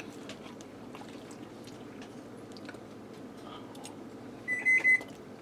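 A person quietly chewing a mouthful of chicken, with faint soft clicks. About four and a half seconds in, a brief loud high-pitched squeak lasts about half a second.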